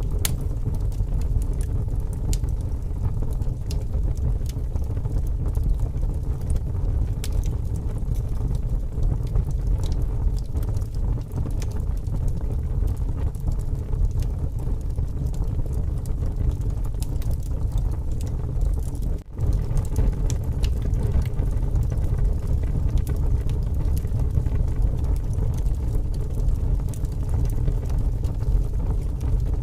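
Wood fire crackling with scattered sharp pops, under strong wind that makes a steady low rumble. The sound drops out for a moment about two-thirds of the way through.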